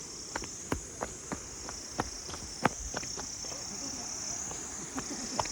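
A steady, high chorus of insects such as crickets, with irregular sharp clicks and taps over it; the loudest comes about two and a half seconds in.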